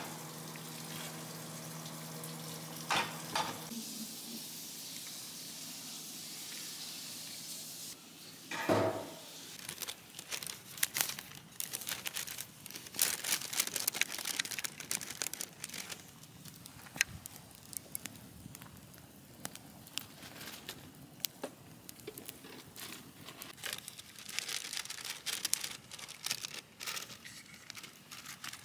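Food frying: a steady hiss with a low hum at first, then about nine seconds in a short louder rush, after which sizzling with many irregular small crackles and pops carries on.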